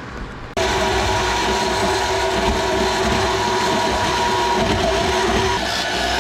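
Power grinder running steadily on sheet steel, with a harsh whine over a rough grinding noise. It starts suddenly about half a second in, and its pitch shifts slightly near the end as the load changes.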